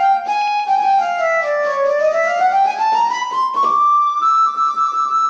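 Violins playing a melody: a few notes stepping downward, then a smooth upward slide into a long held high note.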